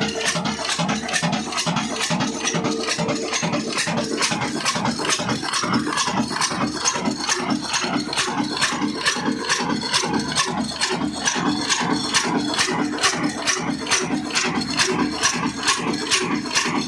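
Old Ruston diesel engine running steadily, with an even knocking beat several times a second.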